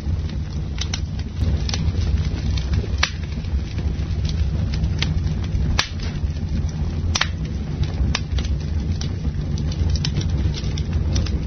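Campfire burning: wood crackling and popping at irregular intervals over a steady low rumble, with a few sharper, louder pops.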